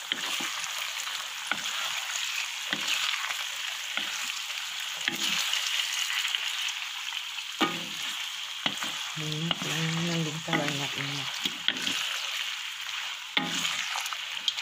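Fermented fish pieces with sliced onion and chilli sizzling in hot oil in a wok, a steady frying hiss. A wooden spatula stirs and turns them, with scattered clicks and scrapes against the pan.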